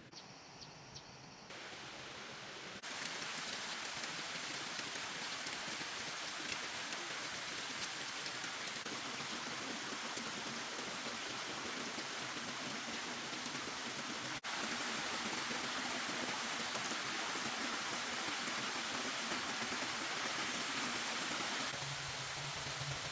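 Steady rain falling, an even hiss that jumps in level at a few edits: faint at first, louder from about three seconds in, and a step louder again midway. A low hum joins near the end.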